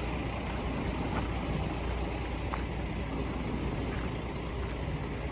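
Nissan Diesel self-loader truck going past with its diesel engine running under load. It makes a steady, mostly low-pitched engine and road noise.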